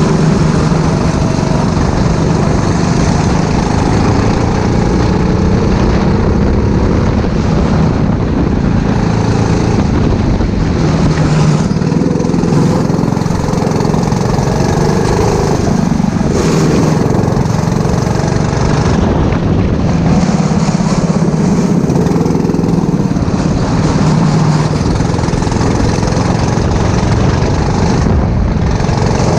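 Four-stroke rental go-kart engine running at racing speed, its note rising and falling with the throttle.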